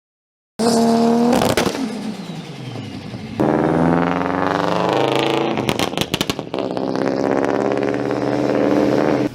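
Turbocharged car engines revving hard in a quick edited sequence: high revs that fall away, an abrupt cut to another rev, and a rapid string of sharp bangs a little past halfway, typical of a 2-step launch limiter.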